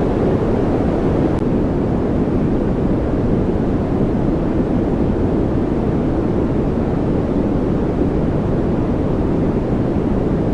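White noise: a steady, unchanging rushing hiss with most of its weight low, a deep even rush with no events.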